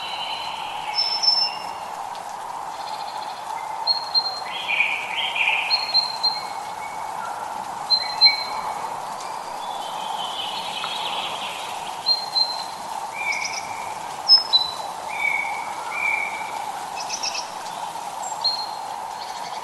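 Several birds singing short whistled notes and chirps, scattered throughout, over a steady hiss of drizzle.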